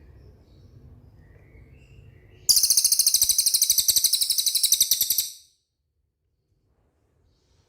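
Cililin bird giving a loud, very rapid high-pitched trill for nearly three seconds that cuts off sharply, over faint scattered bird chirps.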